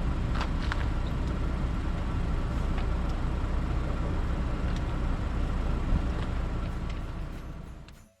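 Steady low rumble of car road noise while driving, with a few light clicks, fading out near the end.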